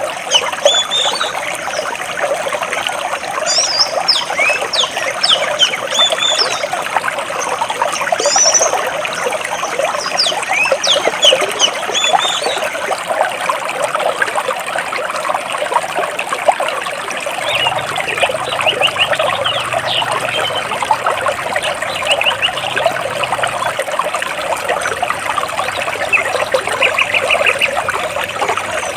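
Water trickling and splashing steadily over rocks in a stream, with small birds chirping high above it, busiest in the first half, and a quick trill near the end.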